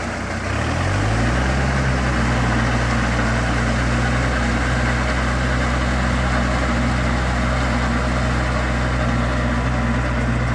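Kubota tractor's diesel engine picking up speed over the first second, then running steadily at the higher speed.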